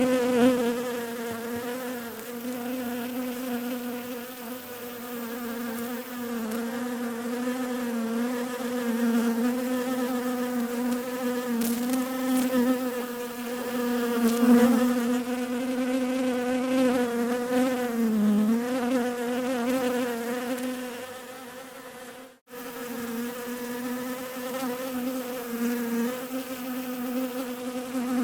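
Bees buzzing in a steady, slightly wavering hum. About 22 seconds in it fades and cuts out for an instant, then the buzzing resumes.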